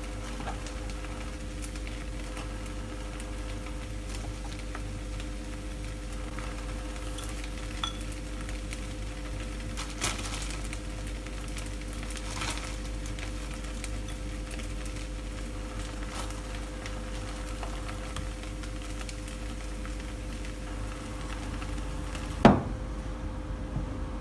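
Food frying in a pan with a steady sizzle over a low hum, a few light utensil clicks, and a loud knock near the end, after which the sizzling dies down.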